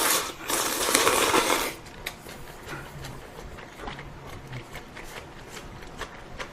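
A person slurping ramen noodles in two loud sucking rushes in the first second and a half, then quieter chewing with small clicks of chopsticks or bowl.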